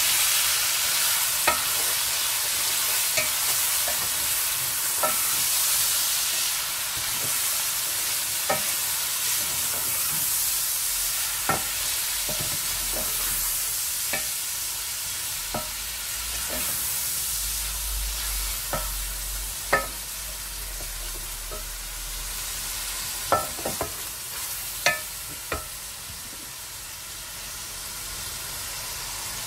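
Boneless chicken and fried onions sizzling in oil in an aluminium pot while being stirred with a wooden spoon, which knocks against the pot now and then. The sizzle slowly dies down over the second half.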